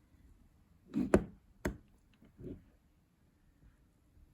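A few light knocks and clicks of small parts being handled on a bench, about one to two seconds in: a capacitor and multimeter test probes being set up for a reading.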